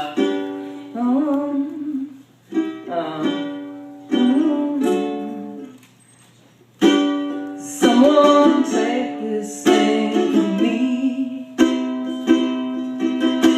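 Ukulele strummed in single chords that ring out, one every second or two, with a voice singing over them. There is a short break in the playing about six seconds in.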